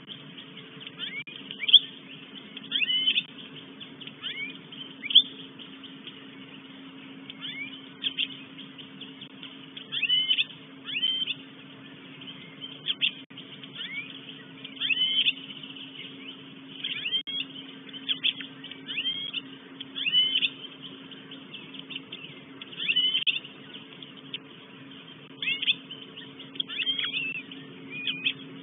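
A bird calling over and over: short, high, slightly curving notes, single or in pairs, every second or two, over a steady low hum.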